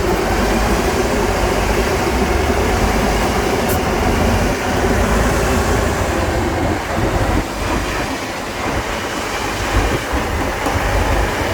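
Heavy trial truck's diesel engine running loudly with a deep, steady rumble, easing off a little about two thirds of the way through.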